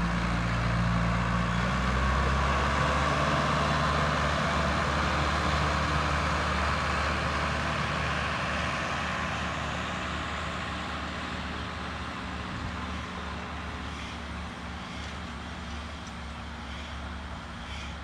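Sonalika All Rounder DX55 tractor's diesel engine running steadily, slowly growing quieter.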